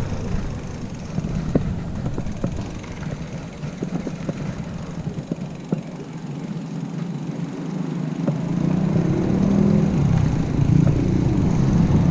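A motor vehicle's engine running, growing louder about two-thirds of the way in, with scattered light clicks.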